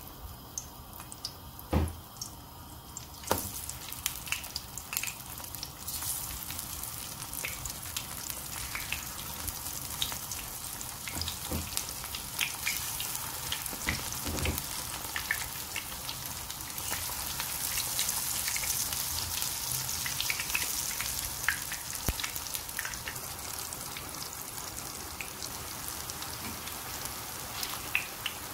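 Coated aubergine slices shallow-frying in hot oil in a pan: a steady sizzle with small crackles and pops, fuller in the middle. A few knocks come in the first half as the pan fills.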